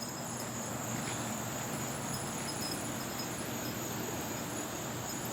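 Steady outdoor ambience with a constant high-pitched insect chorus, crickets chirping in the background; nothing else stands out.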